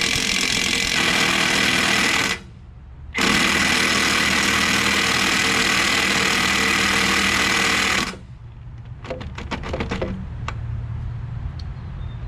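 Impact wrench hammering on a stuck trailer lug nut in two long bursts, the first about two seconds and the second about five, with a short pause between. A few light metallic clicks follow after the second burst.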